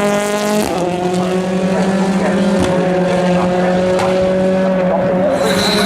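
Ford Fiesta RS WRC rally car's 1.6-litre turbocharged four-cylinder engine running at a steady high pitch, dropping slightly about half a second in like a gear change.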